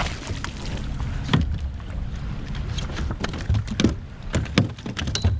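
Scattered clicks and knocks of gear being handled on a plastic fishing kayak, over a low rumble of wind on the microphone.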